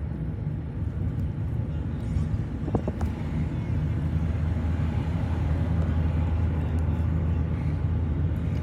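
A car driving, its engine and road noise a steady low rumble from inside the cabin, with a couple of light clicks about three seconds in.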